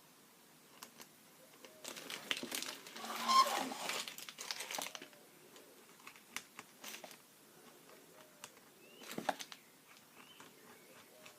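Crinkling and rustling of material being handled, densest for about three seconds starting two seconds in, then scattered light clicks and taps with a short rustle near the end.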